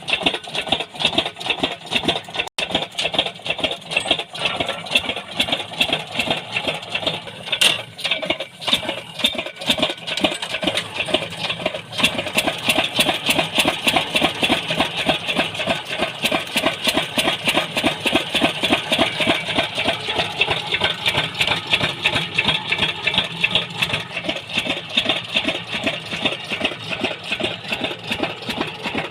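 An engine running with a rapid, even beat, settling into a steadier run partway through.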